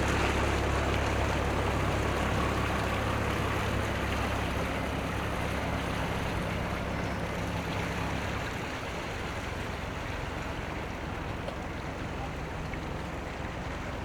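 A low engine rumble that fades after about halfway, over a steady wash of outdoor noise.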